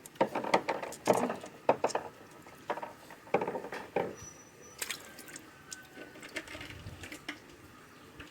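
Small stones dropped into the water of a fish tank, a string of irregular plops and clicks.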